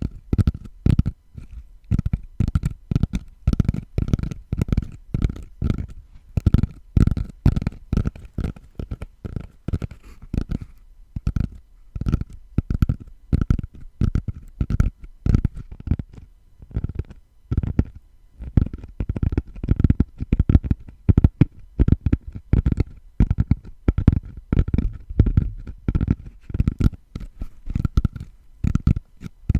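Fingers tapping and scratching on a tatami mat of woven rush straw: soft, dull taps, a few a second, in uneven runs.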